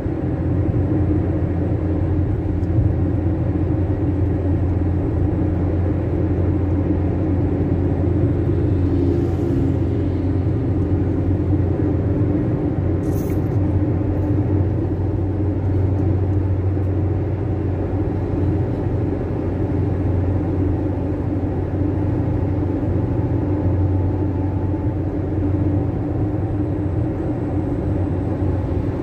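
Fiat Fiorino 1.4 van driving, heard from inside the cab: a steady low engine and road rumble. A single short click about halfway through.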